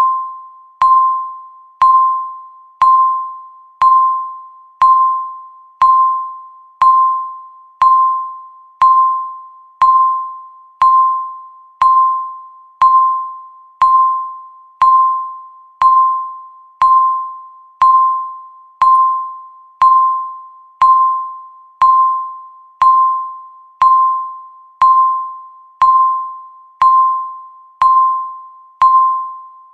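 Countdown timer beep: a single clear electronic tone once every second, each starting sharply and fading away quickly, marking the seconds as they tick down.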